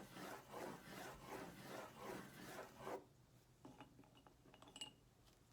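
Crayons scribbling back and forth on paper in quick rasping strokes, stopping about three seconds in; after that only a few faint light taps.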